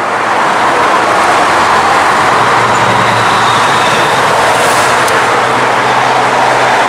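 Steady noise of road traffic passing on a highway, with a heavy vehicle's low engine hum coming in about two and a half seconds in.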